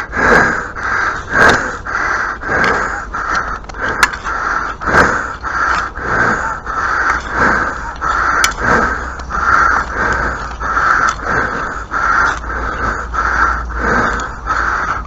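A steady rhythm of rasping, scraping strokes, about two a second, like something being worked back and forth.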